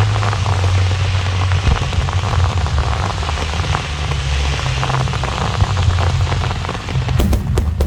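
Aerial fireworks crackling and sizzling in a dense, rain-like hiss over a steady low rumble. A run of sharp cracks comes near the end.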